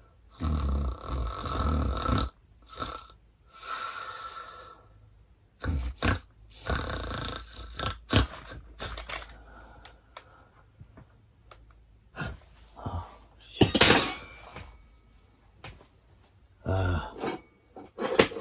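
A man's non-speech vocal noises in the night, grunts and burp-like sounds, coming in irregular bursts, with a few sharp knocks between them.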